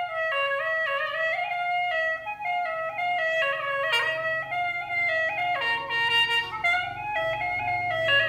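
Instrumental music: a reedy wind instrument plays a stepping melody over a faint, steady low accompaniment.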